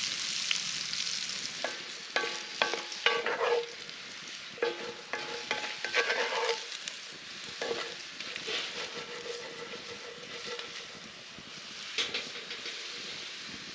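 Food sizzling in a pan while a utensil stirs it, scraping and clicking against the pan in irregular strokes, busiest in the first half.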